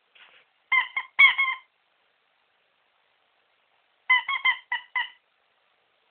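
Rubber squeaky dog toy squeaked in two quick runs of short, high squeaks, about four squeaks, a pause of a few seconds, then about five more, as a puppy bites it.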